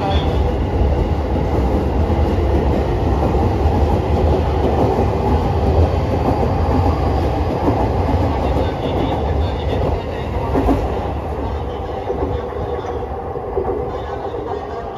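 JR East E233 series 5000 electric multiple unit pulling out, its cars rolling past close by with a steady rumble of wheels on rail. The sound grows quieter over the last few seconds as the end of the train clears.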